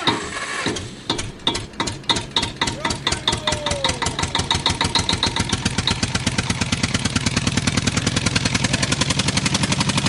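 Tractor engine starting up: separate slow exhaust knocks that quicken over several seconds into a steady, fast chugging run.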